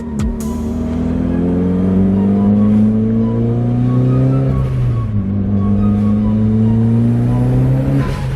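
Mitsubishi Lancer Evolution VIII's turbocharged 4G63 four-cylinder accelerating hard. The engine note rises steadily through a gear, drops at an upshift about five seconds in, then climbs again until another shift near the end.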